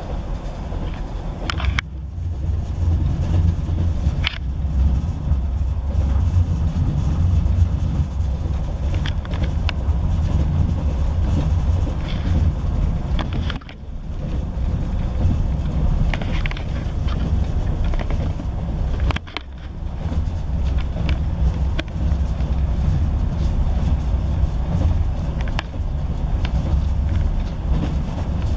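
Interior running noise of a Class 158 diesel multiple unit at speed: a steady low rumble from the underfloor diesel engine and the wheels on the rails, with scattered clicks and knocks. The noise dips briefly three times.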